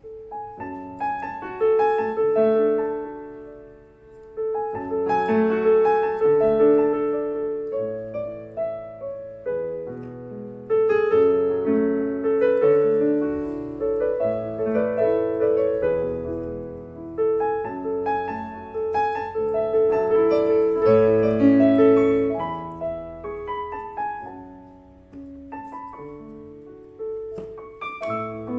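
Casio CT-S1 portable keyboard played with a piano sound: a slow melody over chords, in phrases that swell and fade, with fresh phrases starting about 4.5 s, 11 s and 26 s in.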